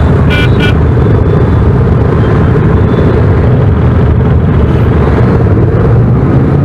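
Steady rumble of a motorcycle on the move, its engine and wind noise filling the sound, with two short high beeps about half a second in.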